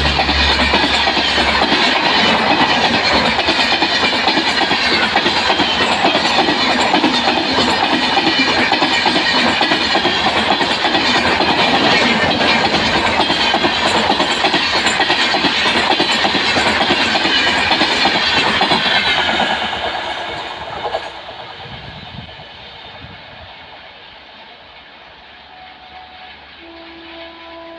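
Indian express train passing close at speed: a loud steady rumble with wheels clattering over the rail joints, dying away after about twenty seconds as the last coaches go by.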